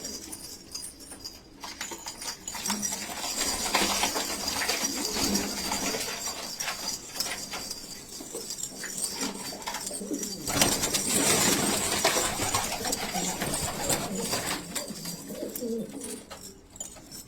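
Domestic pigeons cooing repeatedly, with a louder stretch of rustling noise about ten seconds in.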